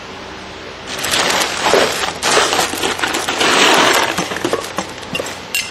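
Metallic clattering and rattling with scraping, starting about a second in: small hard metal parts being handled and knocked together.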